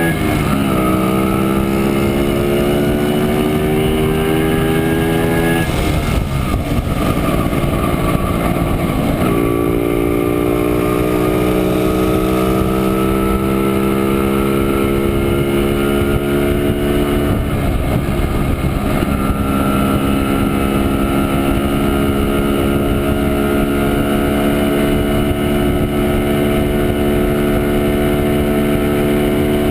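Montesa Impala Comando 175 cc two-stroke single-cylinder engine running under way. Its pitch climbs slowly as it pulls, then drops sharply several times, about six and seventeen seconds in, before climbing again.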